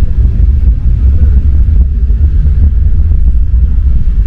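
Rubber-tyred MP 05 metro train running at speed: a loud, steady low rumble.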